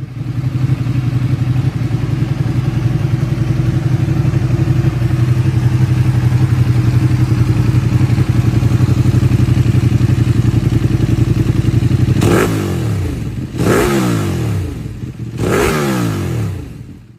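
Honda CBR250R motorcycle engine idling steadily, then revved three times in quick succession near the end, each rev rising and falling back to idle.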